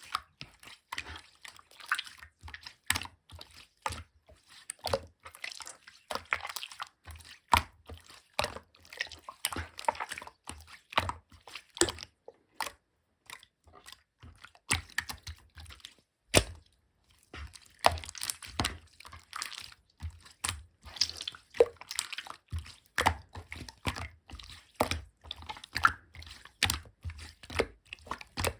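Clear slime being squished, pressed and folded by hand, making an irregular stream of wet clicks, pops and squelches, with a couple of short pauses about halfway through.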